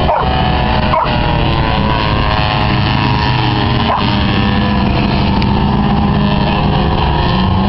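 Race truck engines running hard together during a race, a loud steady mix of several engine notes without a break.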